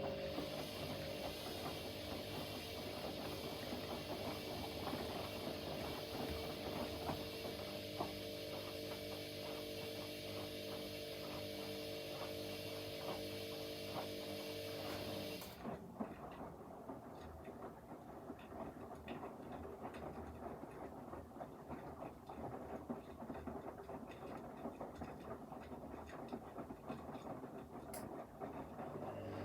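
Front-loading washing machines running a wash cycle: a steady motor hum and hiss with the drum rattling as it turns. About halfway through, the hum and hiss cut off suddenly, leaving quieter irregular clicks and tumbling from the drum.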